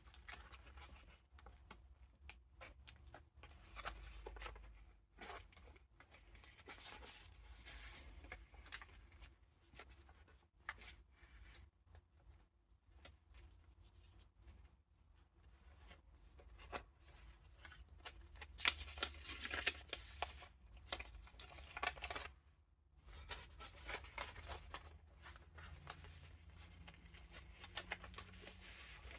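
Paper pages and tucked-in ephemera of a handmade junk journal being turned and handled, with irregular rustling and crinkling. The rustling is loudest about two-thirds of the way through.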